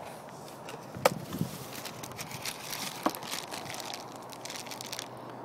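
Packaging crinkling and rustling as parts are handled in a shipping box, with a sharp click about a second in and another about three seconds in.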